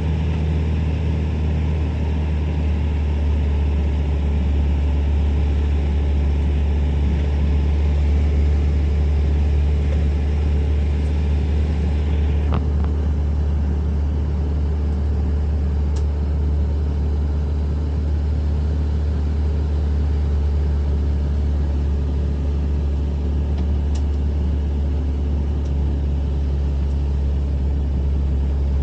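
Steady low rumble of a motor vehicle driving, engine and road noise together, with a few faint clicks.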